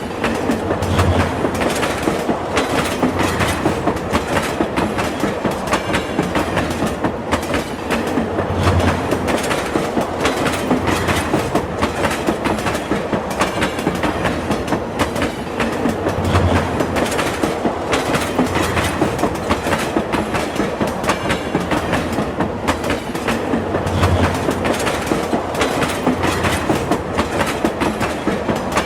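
Train running steadily, its wheels clattering over the rails in a continuous clickety-clack. A deeper low thump comes back about every seven to eight seconds.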